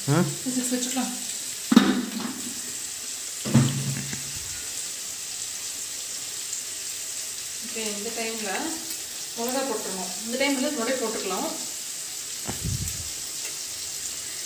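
Onions and dried red chillies frying in oil in a steel kadai, a steady sizzle, with a couple of sharp knocks about two and three and a half seconds in. Voices talk briefly in the second half.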